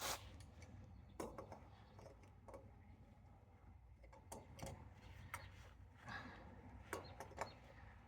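Faint, scattered clicks and small metal taps, about a second or so apart, from an oil filter wrench being fitted to and worked on a new oil filter.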